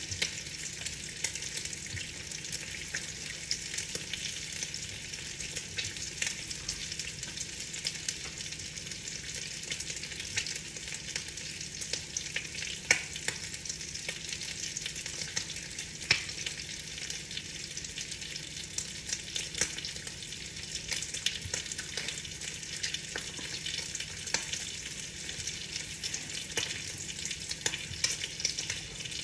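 Steady rain pattering on a window: a dense crackle of many small drop ticks over an even hiss, with a few sharper taps here and there.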